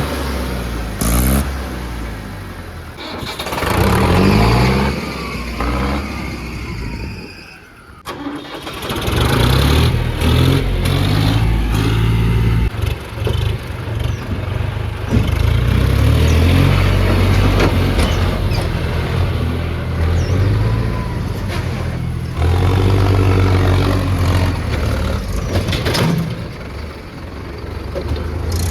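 Tractor engine running and revving, with rises and falls in pitch over the first several seconds, a sudden break about eight seconds in, then a steadier low drone.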